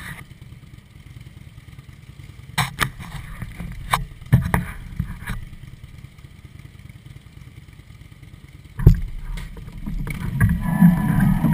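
Harley-Davidson V-twin motorcycle engines idling at a standstill, a steady low rumble with a few sharp clicks and knocks. The sound grows louder near the end.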